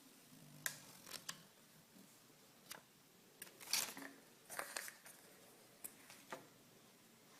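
Hands handling plastic toys and packaging: a scatter of short clicks and brief rustles, the loudest cluster about four seconds in.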